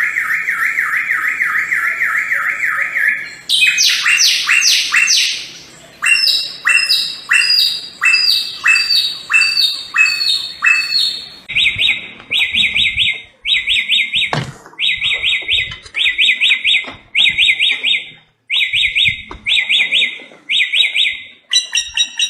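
Samyong bird singing: a fast wavering trill, then loud falling whistled sweeps and a run of down-slurred notes, then short bursts of rapid trills repeated about once a second. There is a single brief knock about halfway through.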